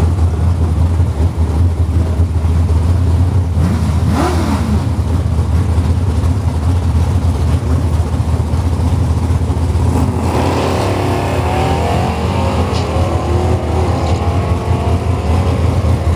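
A pickup truck and a car on a drag strip idling at the starting line with a heavy low rumble, one engine revved up and back down about four seconds in. About ten seconds in both launch, engine pitch climbing as they accelerate away down the track.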